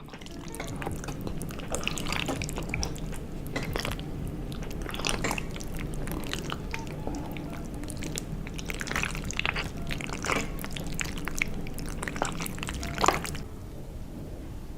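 Close-miked wet, squishy sounds of food drenched in thick sauce being stirred and eaten, with many small sticky clicks and drips. A sharper click comes a little before the end.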